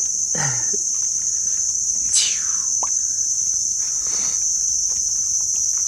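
Rainforest insects keep up a steady, high-pitched drone. A few short downward-sweeping calls sound over it, once near the start and again about two seconds in.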